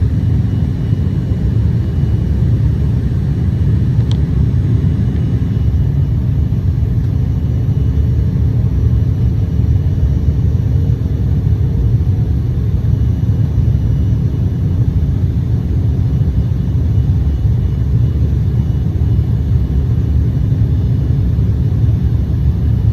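Steady low rumble of a jet airliner heard from inside the cabin, the engines and airflow running evenly, with a faint steady hum riding on it.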